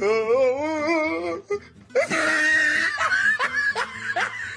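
A warbling, wavering held note for about a second and a half, then laughter with quick rising "ha" sounds.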